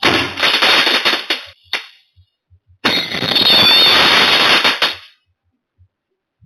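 A string of firecrackers going off in rapid crackling runs: one about a second and a half long, a single crack, then a second run of about two seconds that stops suddenly.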